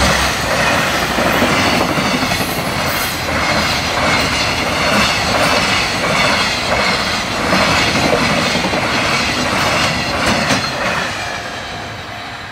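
A long freight train of container wagons passes at speed, its wheels clattering rhythmically over the rail joints. The noise eases off near the end as the last wagons go by, and a steady tone comes in.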